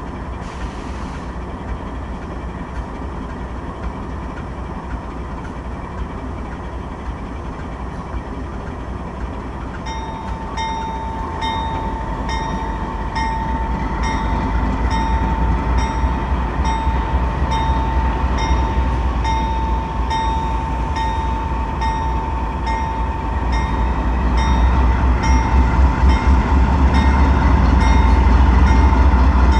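Diesel-hauled intermodal freight train starting to roll: a steady rumble that grows louder as it gets under way. About a third of the way in, a bell starts ringing evenly, a little faster than once a second.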